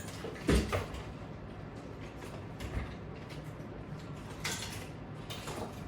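A dull knock about half a second in and a brief scrape a little before the end, over steady room noise.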